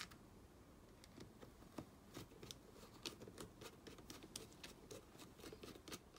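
A sharp click at the start, then a string of faint, irregular small clicks and scrapes as grip panels and their screws are fitted to a Sig Sauer P320 AXG Pro pistol frame by hand.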